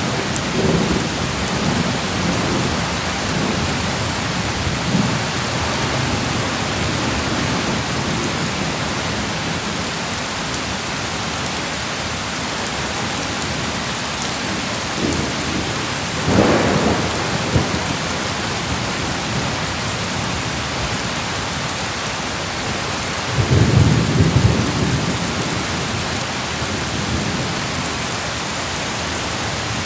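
Steady rain falling through a thunderstorm. Thunder rumbles twice: a sharper roll just past halfway and a deeper, longer rumble about three-quarters of the way through.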